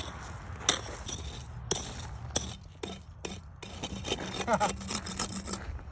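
Repeated short scrapes and clinks, as of digging in the ground and handling small metal finds, with a brief voice sound about four and a half seconds in.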